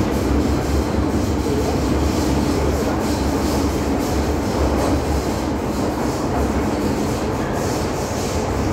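MTR M-Train electric multiple unit running between stations: a steady rumble of wheels on rail and running gear, with faint clicks from the track.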